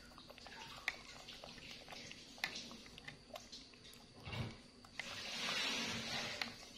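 Faint clicks and scrapes of a plastic spoon against a yogurt cup and plate, with a tap running briefly from about five seconds in.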